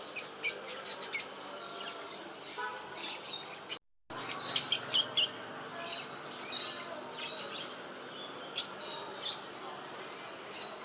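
Small pet birds chirping in quick bursts of sharp, high calls, busiest near the start and again just after a brief dropout about four seconds in, with scattered single chirps later.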